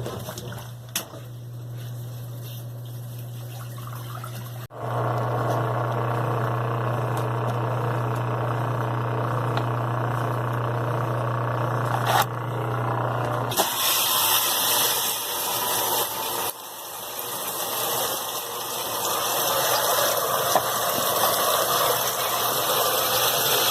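Brastemp BWQ 24 top-loading washing machine working: a steady electric hum that grows louder about five seconds in. About halfway through the hum cuts out and water rushes into the tub with a loud, even hiss as the machine fills.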